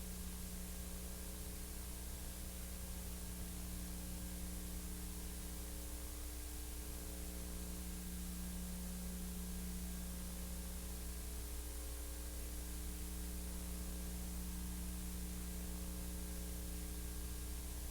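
Steady hiss with a low electrical hum underneath and no other sound: background noise of the soundtrack.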